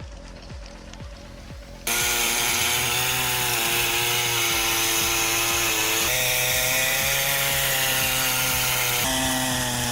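Chainsaw running steadily at high speed, starting suddenly about two seconds in, its pitch shifting slightly twice.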